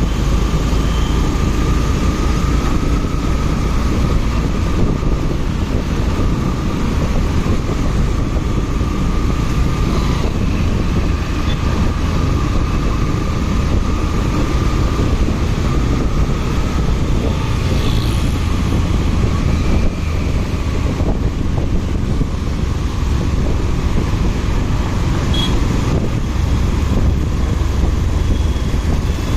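Motorcycle on the move: engine running with low rumbling wind noise on the microphone and a faint wavering whine, and a few brief high chirps about 18 and 25 seconds in.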